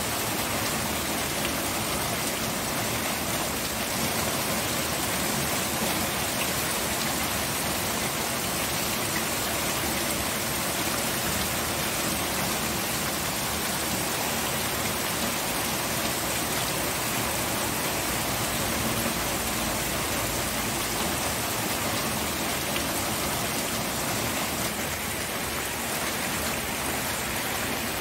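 Steady rain falling, an even hiss of water that does not change.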